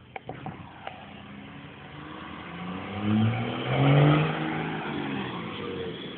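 A motor vehicle drives past with its engine running, building to its loudest about three to four seconds in, then dropping in pitch as it moves away.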